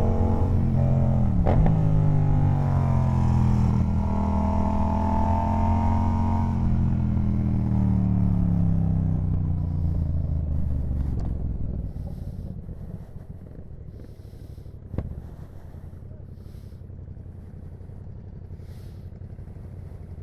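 Yamaha MT-07's parallel-twin engine slowing down, its pitch falling through a gear change about a second in, then settling to a low idle about halfway through. A single sharp click sounds during the idle.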